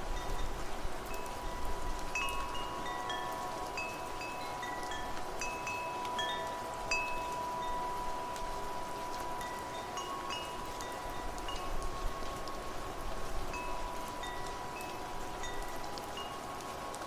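Wind chimes ringing irregularly in the wind, many light strikes at different pitches over a lingering ring, with a steady hiss of rain and wind beneath.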